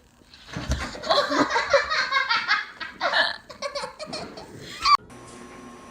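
A person laughing hard in rapid, repeated bursts, which cuts off suddenly about five seconds in, leaving a faint steady hum.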